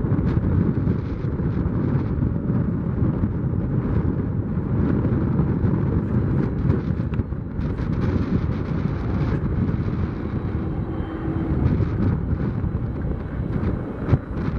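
Strong wind buffeting the microphone, over the rumble of jet aircraft engines.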